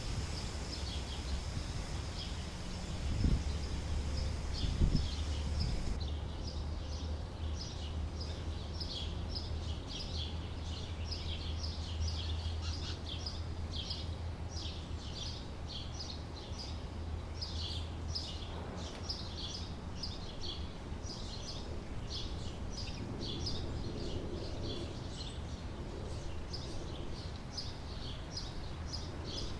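Birds chirping over and over outdoors, short high chirps about twice a second, over a low steady hum.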